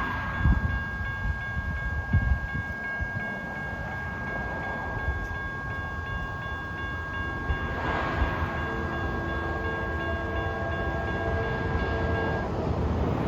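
Railroad grade-crossing warning bell ringing steadily, with an approaching train's horn sounding in several blasts from a distance over the second half. The bell stops shortly before the end.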